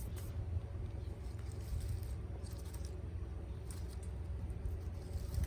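Scattered faint clicks and light rattles, as of small gear being handled, over a low steady rumble.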